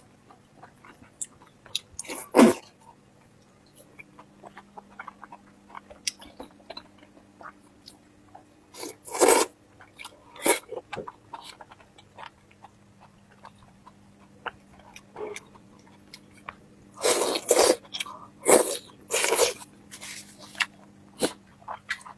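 Close-miked chewing and mouth sounds of a person eating, many small wet clicks, with several louder noisy bursts such as slurps or sniffs, clustered near the end. A faint steady hum runs underneath from a few seconds in.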